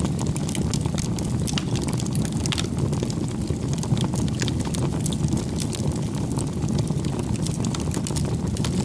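Wood campfire crackling: a steady low rumble of burning with frequent small sharp pops and snaps.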